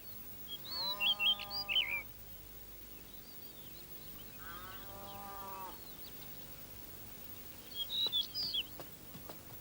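Two long cow moos a few seconds apart, with small birds chirping in short bursts during the first moo and again near the end.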